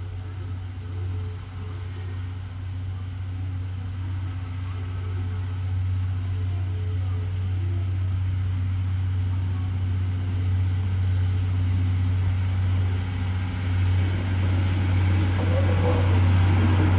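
DL Taiju diesel-hauled train of blue passenger coaches approaching slowly: a steady low engine drone that grows louder as the train draws near, with rail and wheel sounds building near the end.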